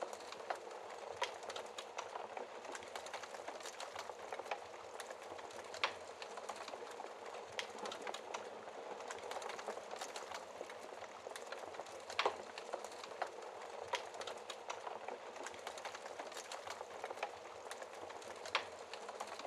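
Wood fire crackling in a fireplace: a steady hiss with frequent small clicks and three louder pops spaced about six seconds apart.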